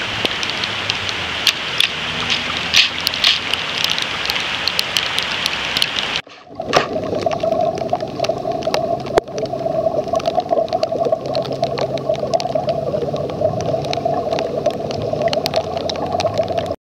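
Heavy rain pouring down with floodwater running, a steady hiss full of sharp drop ticks. It breaks off briefly about six seconds in, then comes back as a duller, steady rush.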